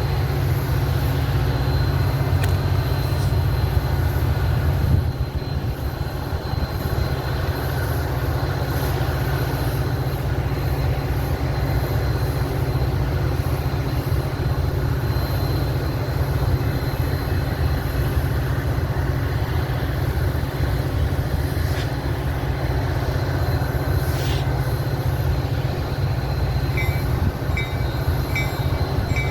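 Train running with a steady low rumble. A faint evenly repeated sound starts near the end.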